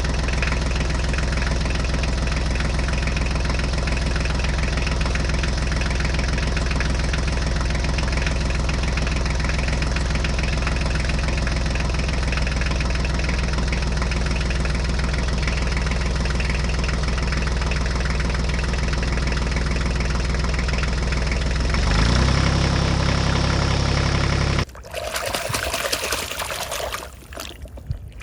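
Engine running steadily, a low hum with even overtones; a little before the end it steps up slightly in pitch, then cuts off suddenly and a different, noisier sound takes over.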